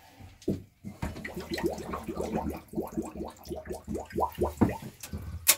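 Water gurgling and glugging through the boat's plumbing in a quick run of short rising gulps, ending in a couple of sharp knocks.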